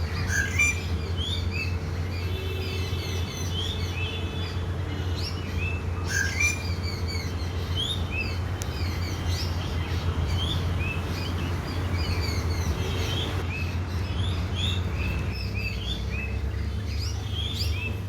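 Several small birds chirping in quick, short, overlapping calls, over a steady low hum.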